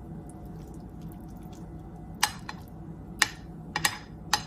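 Wooden spoon smoothing over mac and cheese: a soft squish of the cheesy pasta, with several sharp clicks as the spoon knocks against the dish in the second half, over a steady low hum.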